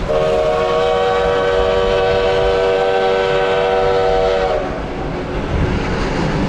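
Steam locomotive whistle blowing one long chord of several tones together, held for about four and a half seconds and sagging slightly in pitch as it cuts off, over the rumble of the moving train.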